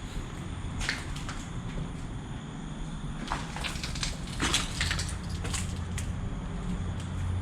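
Irregular crunching and crackling, a few sharp crackles at uneven intervals, over a steady low hum.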